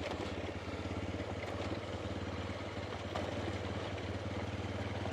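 Honda Dominator's single-cylinder four-stroke engine running steadily as the motorcycle is ridden slowly along a dirt track.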